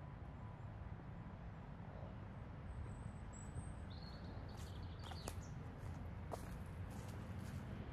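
Small birds chirping a few times, about halfway through, over a faint low steady outdoor rumble.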